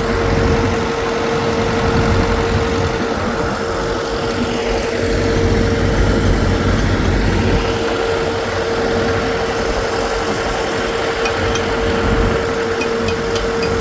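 An engine running steadily with a constant hum, and a few light ticks near the end.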